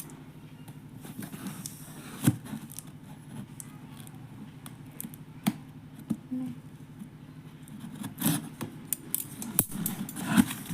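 A knife cutting and scraping at a parcel's packaging, with scattered sharp clicks and scratchy tearing sounds, busier near the end, over a steady low hum.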